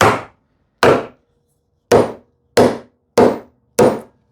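Hammer tapping a glued drawer back into its housing dado joint: six sharp knocks on wood, unevenly spaced about half a second to a second apart, driving the joint home.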